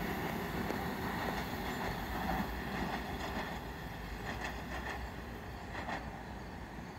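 Metro-North electric multiple-unit commuter train rolling away along the track, its rumble fading as it recedes, with a few faint wheel clicks in the second half.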